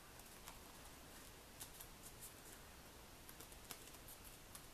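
Near silence, with a few faint, short taps and rustles of paper card stock being handled and positioned by hand.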